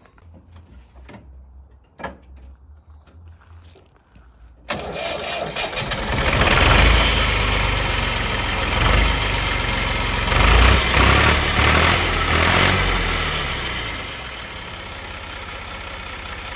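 Tractor engine starting about five seconds in, running loud and unevenly for several seconds, then settling to a steadier, quieter run near the end.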